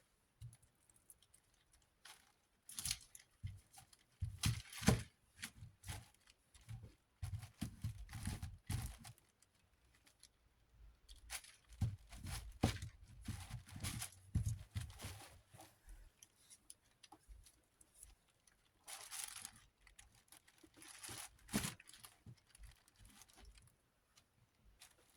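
Intermittent handling and cleaning sounds: cleaning wipes or paper towels rustling and rubbing, broken by small knocks and clicks of parts being handled, as the desk fan's motor housing is cleaned.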